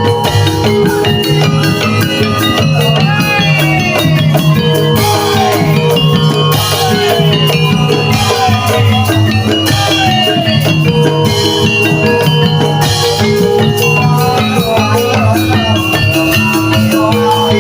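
Jaranan gamelan music: struck metal gamelan keys and drums keep a steady rhythm, with a wavering melody line bending in pitch through the middle.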